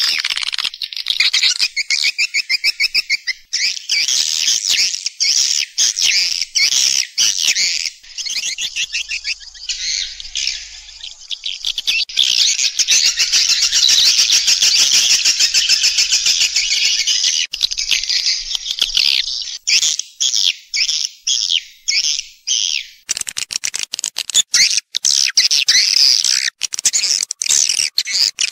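Edible-nest swiftlets calling: dense, rapid, high-pitched twittering and chirping, the recorded lure call that swiftlet farmers play to draw the birds into a nest house.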